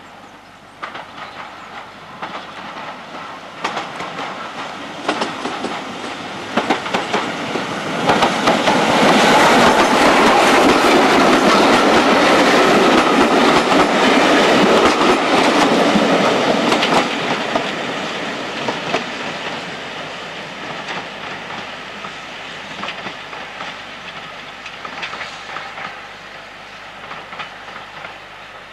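Steam-hauled passenger train passing close by: coach wheels rumbling and clicking over the rail joints in a clickety-clack. It builds to its loudest for about nine seconds in the middle, then fades as the train draws away.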